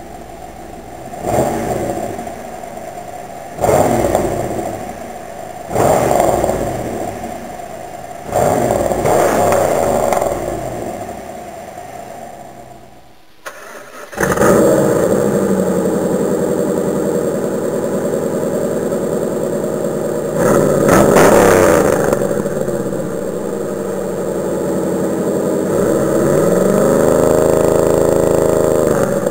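Pontiac Trans Am engine revved in four short blips, each dropping back to idle. After a brief break it runs steadily, with another rev about two-thirds of the way through.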